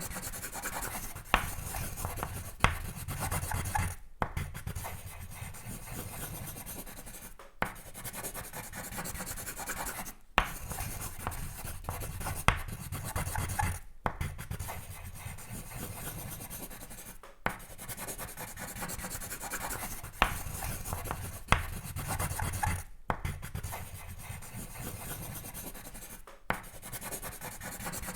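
Pencil sketching on paper: continuous scratchy strokes in stretches of a few seconds, broken by brief pauses, with occasional sharp taps.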